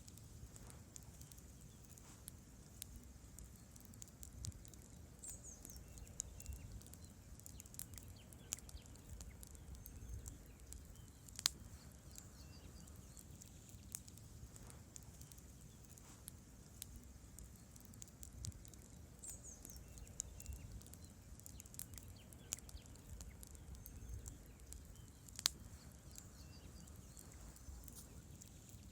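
Wood campfire crackling: scattered sharp snaps and pops of burning logs over a low steady rumble of the flames. Two louder pops stand out, one before the middle and one near the end.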